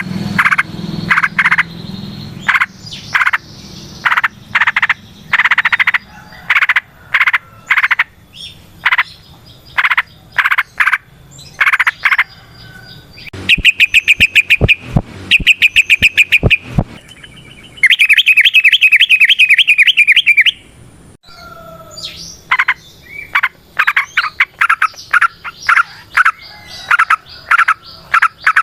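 Yellow-vented bulbul (trucukan) calling: a run of short repeated chirps, then two loud, fast trills in the middle, then busy chattering notes near the end.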